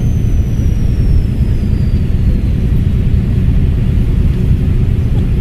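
Volvo B7RLE bus's seven-litre six-cylinder diesel engine running with a heavy rumble. A high turbocharger whistle falls in pitch over the first two seconds or so.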